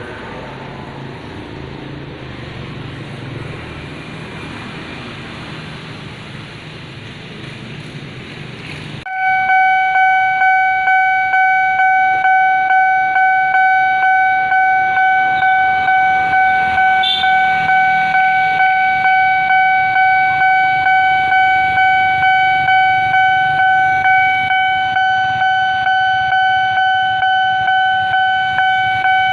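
Low rumble of passing traffic, then about nine seconds in a railway level-crossing warning alarm switches on: a loud, steady electronic tone that pulses evenly, signalling that a train is approaching.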